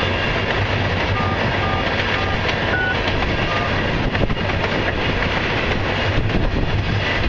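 Freight train tank cars rolling past at steady speed: a continuous rumble and rattle of steel wheels on rail, with a few louder knocks a little past halfway and again near the end.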